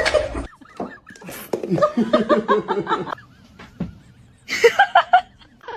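A person laughing in two short bouts of quick, repeated bursts, the second about a second and a half after the first.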